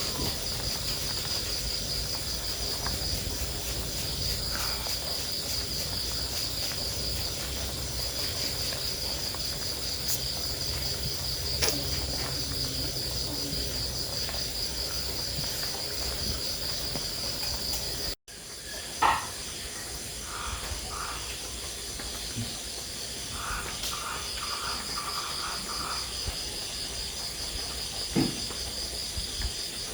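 A steady chorus of insects with a fine, pulsing high buzz. It breaks off for an instant about two-thirds of the way through and then carries on, with a few brief chirps and knocks.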